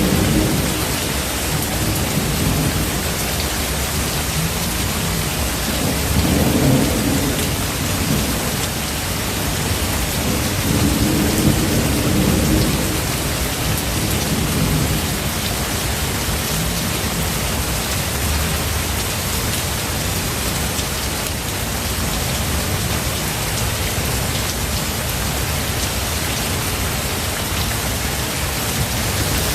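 Steady rain hissing throughout, with rolling thunder rumbling low underneath, swelling about six seconds in and again around eleven seconds, then dying away through the second half.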